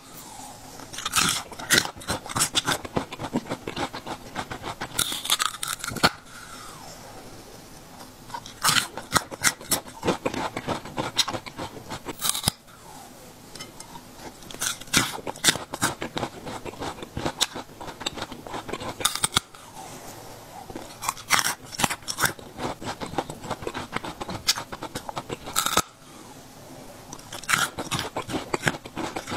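Crisp crunching and chewing of raw banana stem heart, close to a clip-on microphone, in irregular bouts of crunches with short quieter pauses between bites.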